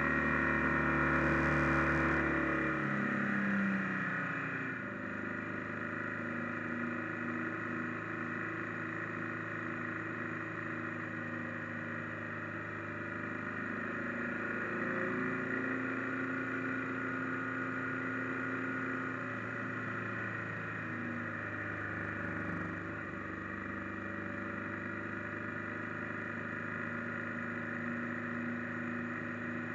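Motorcycle engine running under way, heard from the bike itself. It is loudest at first, then eases off about three seconds in and runs on at a lower, steady note, picking up slightly now and then.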